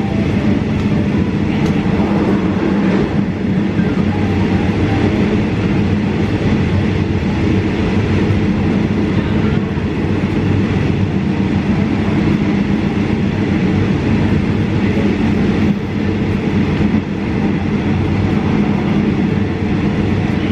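Passenger train running steadily: a continuous rumble with a low, even hum that does not let up.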